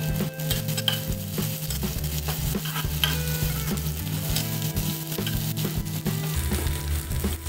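Sliced shallots, garlic, lemongrass and lime leaves sizzling in hot oil in a frying pan. A slotted metal spatula stirs and scrapes them around the pan, with repeated small clicks against the pan.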